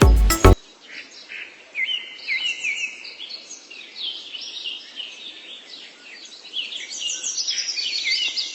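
Birds chirping and singing: many short, quick notes overlapping, high-pitched. A music track cuts off about half a second in.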